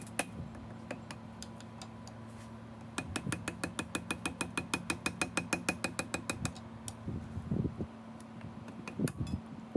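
Metal hand tools working on engine parts: an even run of sharp metallic clicks, about seven a second, for a few seconds, over a steady hum, with scattered knocks of metal on metal before and after.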